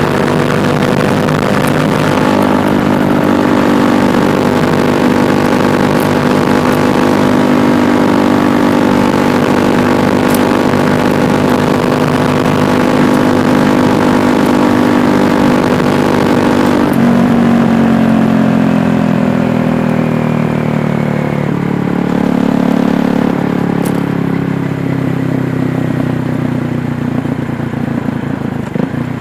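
KTM Duke 390's single-cylinder engine running at steady revs on the move. About two-thirds of the way through, the pitch drops and falls gradually as the revs come down, then settles at a lower, steady note.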